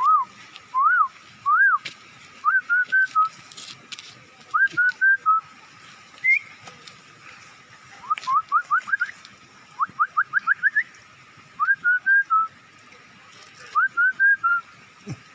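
A person whistling imitations of bird calls: short pure whistled notes that rise and fall, first a few single arched notes, then clusters of three or four quick chirps, with a fast run of about half a dozen rising notes a little past the middle.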